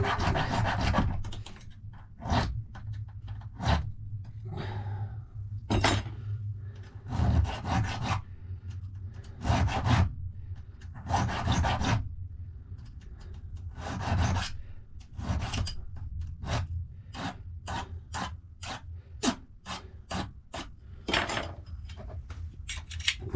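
Hand file on a safe-lock key blank, a long series of short rasping strokes, at about two a second through the middle, cutting down the key bits where the lever impression marks showed.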